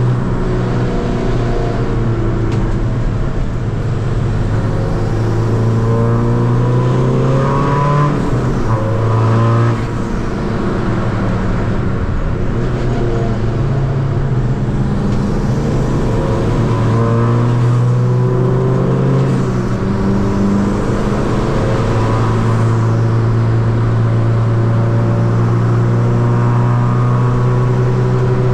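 Tuned 2.0 common-rail turbodiesel of a Seat Ibiza FR under hard acceleration on track, its pitch climbing and dropping at each gear change several times, with a brief lift in power just before the middle.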